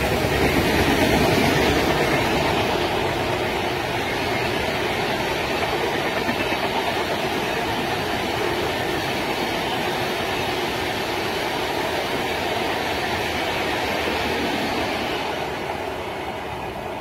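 Train running on rails, a steady run of wheel noise that grows fainter over the last couple of seconds.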